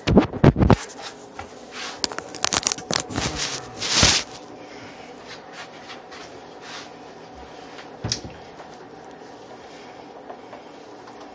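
Kitchen handling noises while instant pancake mix is got ready: a run of knocks and clicks, then a short rushing, rustling burst about four seconds in. After that only a faint steady hum, with a single click near eight seconds.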